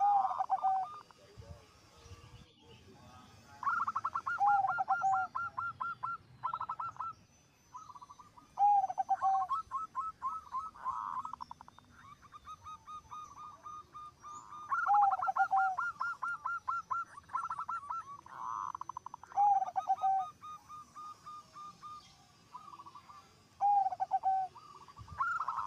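Zebra doves (perkutut) cooing: a loud phrase of quick staccato coos ending in a lower drawn-out note, repeated every few seconds. Fainter trills of coos from other doves fill the gaps between phrases.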